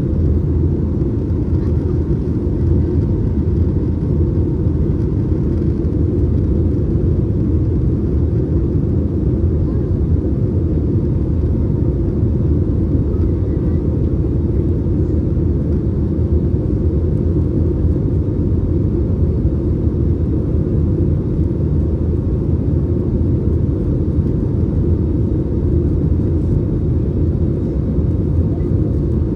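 Steady low cabin rumble of an Airbus A321neo's engines and airflow under way, heard from inside the passenger cabin, even in level with no changes.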